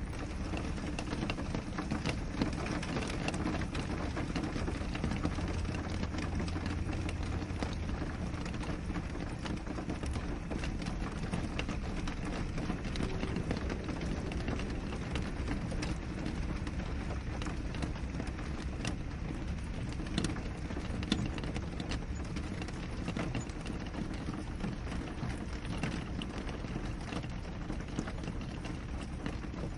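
Steady rain falling on a window, a constant patter with many separate drops ticking against the glass.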